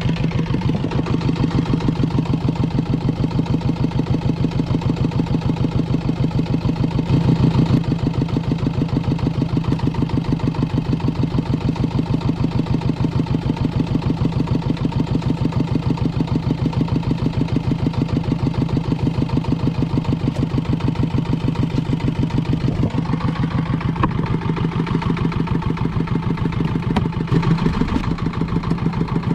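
A small fishing boat's engine running steadily at a constant speed, with an even, rapid chugging beat.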